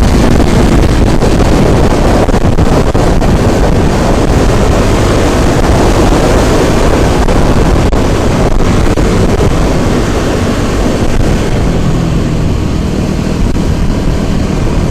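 Wind buffeting the microphone while riding a small motorbike, with the engine running underneath; the engine note drops lower near the end.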